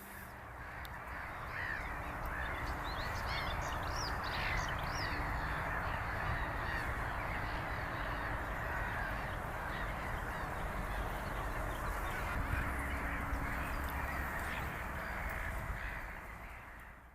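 A dense chorus of many birds calling over one another, with higher chirps standing out a few seconds in; it fades out at the end.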